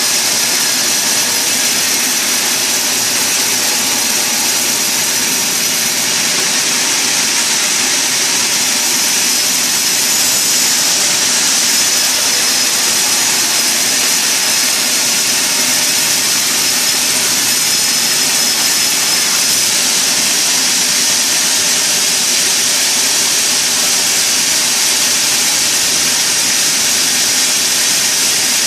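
Sawmill machinery running steadily: a loud, constant mechanical noise with a hissing edge and no breaks.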